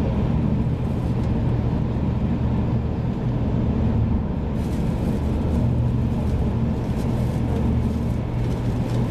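Steady low rumble of a 500 Series Shinkansen running at speed, heard from inside the passenger cabin, with a little more hiss from about halfway through.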